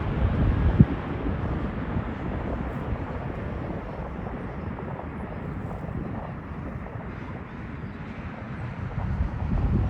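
Boeing 777-300 airliner's jet engines during landing: a broad, deep rushing noise that fades over several seconds and swells again near the end. A sharp knock about a second in.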